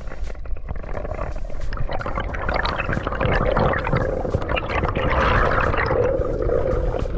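Water gurgling and sloshing with a dense crackle of small clicks, growing louder about three seconds in.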